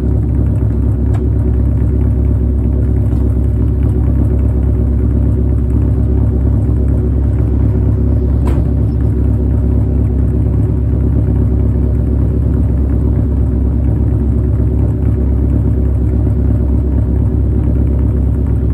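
Nissan S13 Silvia's naturally aspirated 2.2-litre four-cylinder with four individual throttle bodies, idling steadily through a straight-pipe exhaust with a deep rumble.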